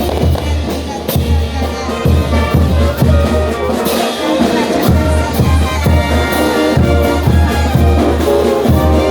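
Bolivian brass band playing a carnival dance tune: trumpets and trombones carry the melody over a steady beat of bass drum.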